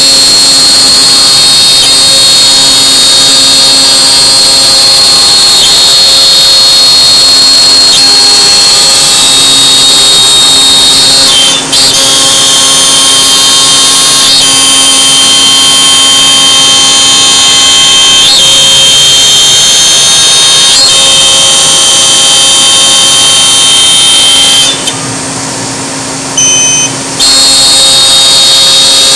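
CNC router spindle running with a loud, steady high whine as the machine cuts, with lower steady tones that change pitch every few seconds as it moves. About 25 seconds in the sound drops and turns duller for around two seconds, then returns to full level.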